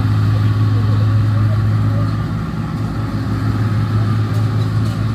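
Diesel engine of a New Holland 1545 combine harvester running steadily, with a steady higher whine from the machine over the engine's low hum.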